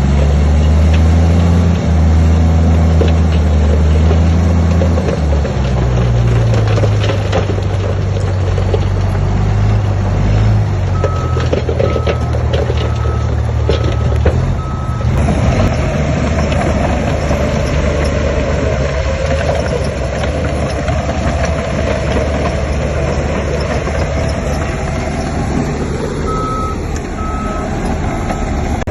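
Heavy earthmoving equipment's engine running steadily, its pitch shifting about five seconds in. A reversing alarm beeps in two runs: five beeps about midway and three near the end.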